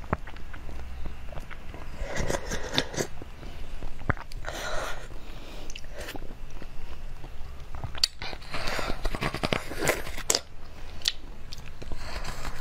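Eating sounds picked up by a clip-on microphone: someone biting and chewing soft jelly, with irregular mouth clicks and smacks.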